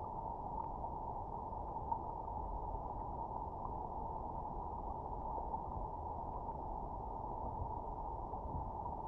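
River water heard underwater: a steady, muffled rush of flowing current, with a few faint ticks.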